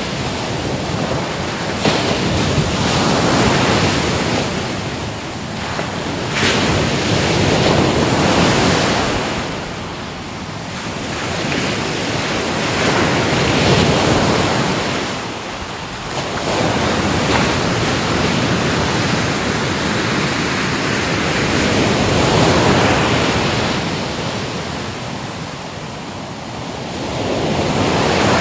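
Ocean waves breaking on a shore: the surf swells and falls back about five times in slow surges.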